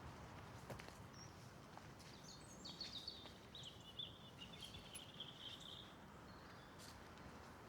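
A small songbird singing one short, twittering phrase of about two seconds, faint over a quiet woodland background.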